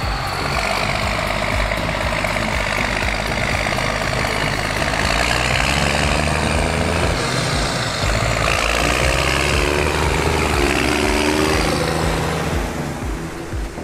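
New Holland T6030 tractor engine with an open steel exhaust, running steadily under work. Its revs shift in the second half, and the sound fades away near the end.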